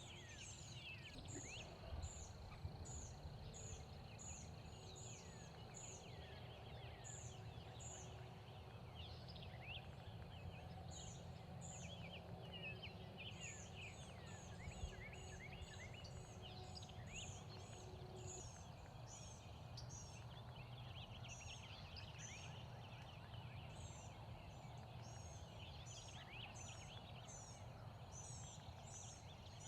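Quiet spring woods: small birds chirping in quick, repeated high notes throughout, over a low steady rumble of wind.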